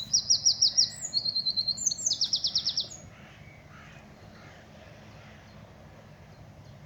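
A songbird singing loud, fast trilled phrases of high repeated notes, which stop about three seconds in, leaving a faint background hum.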